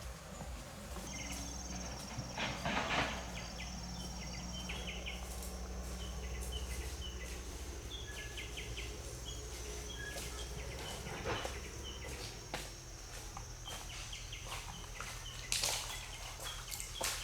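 Outdoor ambience: short high chirps repeating over a steady high whine and a low hum, with a few brief rustling steps, the loudest about three seconds in.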